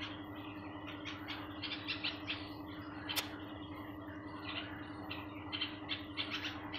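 Small birds chirping in quick, repeated short notes, over a steady low hum. A single sharp click sounds about three seconds in.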